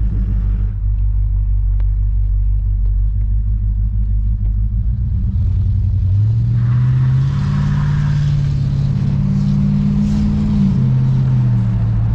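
The 1968 Buick LeSabre's 350 cubic-inch small-block V8 is heard from inside the cabin. It idles steadily, then rises in pitch as the car pulls away and accelerates, and drops back about ten seconds in as the TH400 automatic transmission shifts up.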